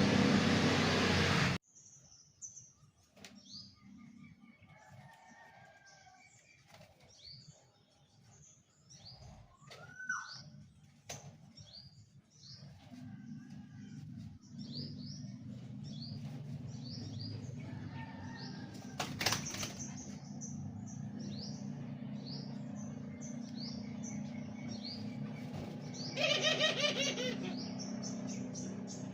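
Caged birds chirping in many short, high, repeated chirps, with a steady low hum in the background through the second half. A loud rush of noise opens the clip and cuts off abruptly, and a brief louder rapid trill comes near the end.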